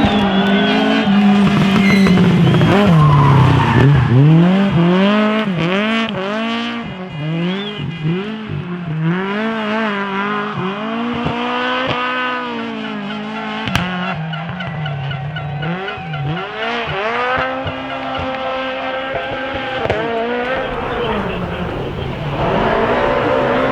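Drift car engine revving hard, its pitch rising and falling over and over about once a second, with tyre squeal; the pitch drops about three seconds in and climbs to a held high rev near the end.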